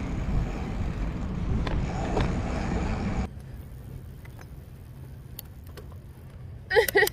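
Wind and road rumble on a bike-mounted camera while cycling, cutting off suddenly about three seconds in. Then quieter street background with a few clicks, and a short, loud pitched sound near the end.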